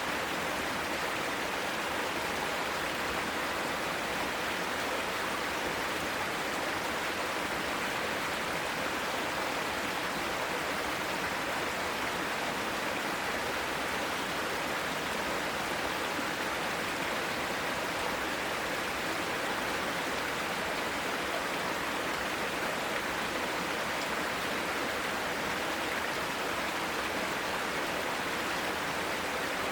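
Mountain stream running in a steady, even rush of water.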